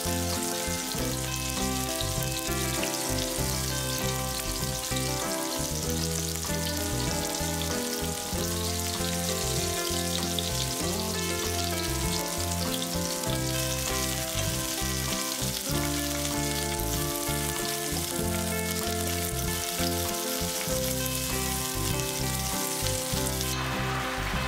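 Flour-dusted mackerel pieces sizzling steadily as they shallow-fry in oil in a frying pan, over background music. The sizzle changes near the end.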